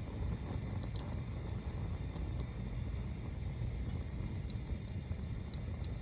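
A tower-stacked bonfire burning in a tall column of flame: a steady low rumble with a few faint crackles and pops now and then.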